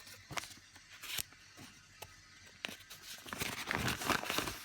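A few light clicks and knocks as a collapsible coffee dripper is handled and set on a cup, then paper crinkling and rustling from about three seconds in as a coffee filter is handled.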